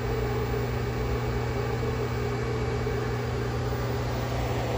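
Commercial Chef microwave oven running at full power while cooking: a steady hum with a strong low drone.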